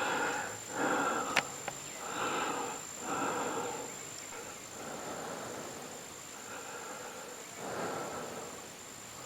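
A person breathing hard close to the microphone, in irregular breaths about once a second, with a sharp click about a second and a half in. A thin, steady, high-pitched whine runs underneath.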